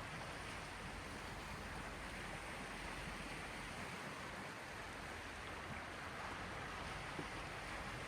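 Sea waves on the Gulf of Finland make a steady, even wash of water, with no separate wave breaks standing out.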